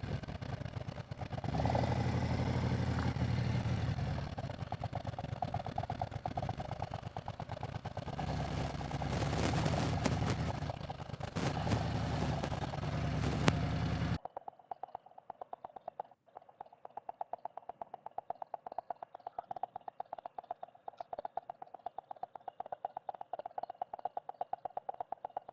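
Harley-Davidson Road Glide's V-twin engine running at low speed, with wind noise over the microphone. About halfway through, the sound cuts off abruptly, leaving only a faint steady hum with light ticking.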